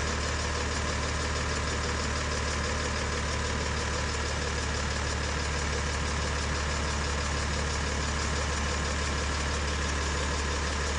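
Truck engine idling steadily, an even low-pitched running sound that does not change.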